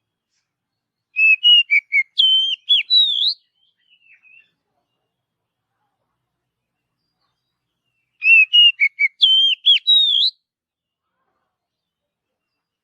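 Oriental magpie-robin (kacer) singing: two identical phrases of clear whistled notes with quick up-and-down pitch turns, each about two seconds long, the first about a second in and the second about eight seconds in.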